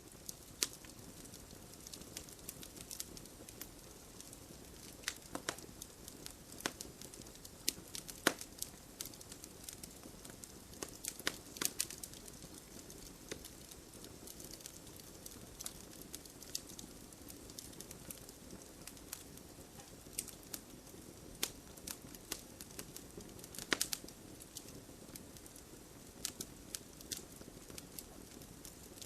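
Campfire crackling: irregular sharp pops and snaps, a few of them louder than the rest, over a steady low rush of the burning fire.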